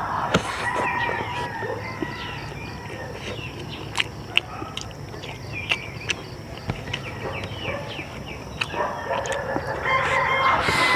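A rooster crowing twice: one long crow at the start and another near the end. Scattered sharp clicks and taps come in between.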